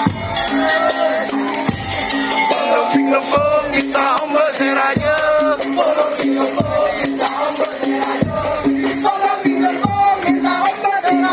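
Madurese tong-tong band music: a percussion ensemble with a deep drum beat about every one and a half seconds under a steady held tone and a wavering melody line.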